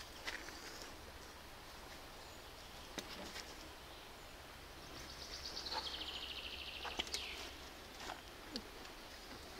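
Forest ambience: a faint steady background with scattered short bird chirps. About halfway through, a songbird sings a rapid trill of high notes lasting a couple of seconds, ending in a quick falling note.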